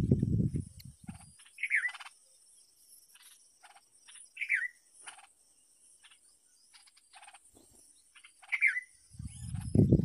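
Three short, downward-sliding bird chirps, about three seconds apart, from bulbuls at a nest, over a steady high insect hiss and faint ticking. A low rumble fills the first second and returns near the end.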